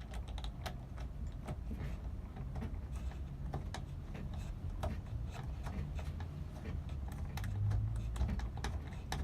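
Irregular small clicks and taps of a screw being driven in by hand with a screwdriver while fixing a ceiling fan to its bracket, over a low rumble.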